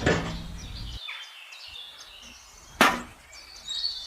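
A low mechanical hum stops about a second in, and two sharp knocks sound, one at the start and a louder one near three seconds in, with birds chirping faintly in the background.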